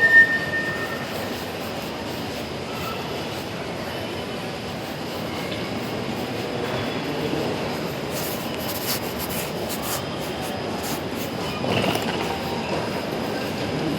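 Delhi Metro train running on the rails: a steady rumble of wheels on track, with a brief high squeal right at the start and a spell of sharp clicking and rattling about halfway through.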